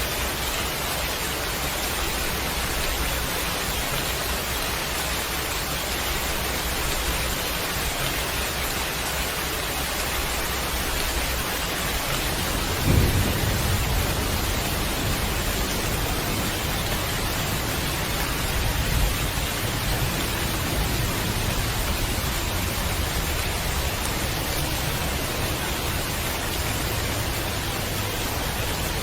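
Steady rain hiss, with a clap of thunder about halfway through that rolls on as a low rumble for several seconds, peaking again briefly a few seconds later.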